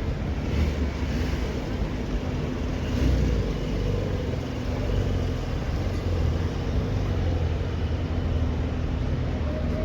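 Car engine running at low revs amid street traffic: a steady low rumble with a faint hum.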